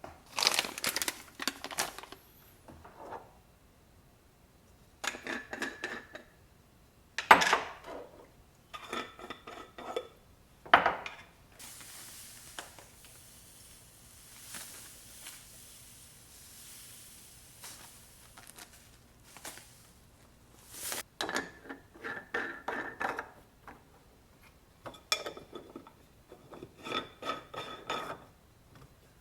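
Small spice containers clinking and knocking as they are handled and set down, in several short bursts of ringing clinks.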